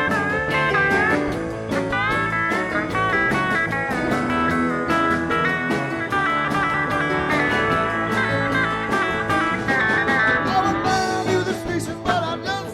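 Live rock band playing an instrumental break: bending lead guitar lines over bass, keyboards and drums keeping a steady beat.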